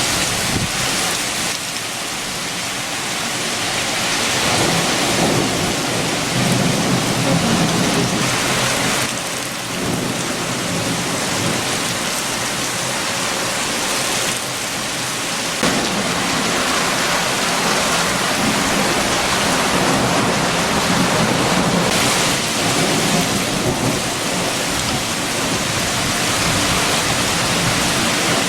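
Heavy rain falling steadily with strong wind, with a low rumble that swells about four seconds in and again from about sixteen to twenty-two seconds.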